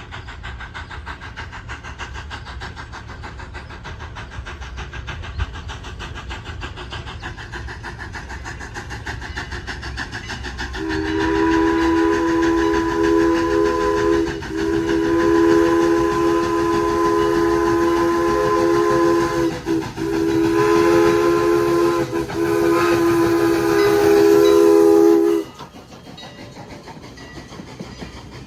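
A train's multi-note chime whistle sounds the grade-crossing signal: two long blasts, a short one, then a long one, over the steady rumble of the passing train. The last blast cuts off abruptly.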